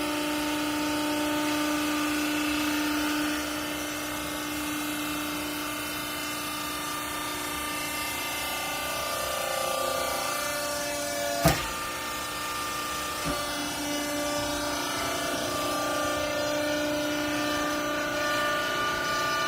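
Hydraulic clothing baler running: a steady machine hum whose tone shifts a few times, with one sharp clack about eleven seconds in.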